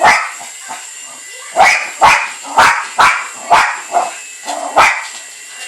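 Jack Russell terrier barking at a remote-control model helicopter: one bark, a pause of about a second and a half, then a run of about six sharp barks about half a second apart.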